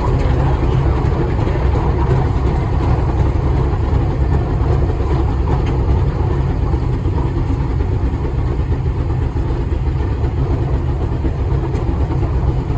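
Steady, loud low rumble of running engine machinery, with no distinct beat or strokes.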